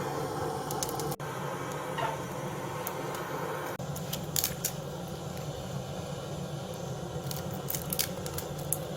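Pine firewood fire burning, a steady rushing noise with scattered sharp crackles and pops.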